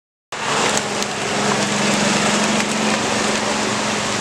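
Steady rain hiss, cutting in suddenly a moment after the start, with a low steady hum underneath.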